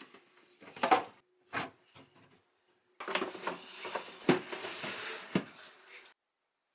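Household items being handled: a few knocks and clatters, then about three seconds of rustling and knocking that stops abruptly.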